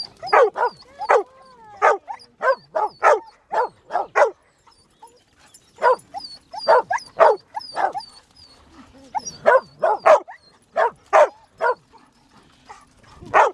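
A dog barking excitedly over and over, in quick runs of short barks with a couple of brief pauses.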